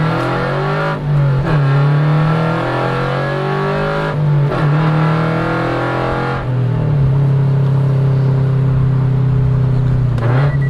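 Scion FR-S flat-four engine through a free-flowing header-back performance exhaust with resonator, accelerating up through the gears. It is loud. The pitch climbs and drops back at each upshift, three times, then holds fairly steady near the end.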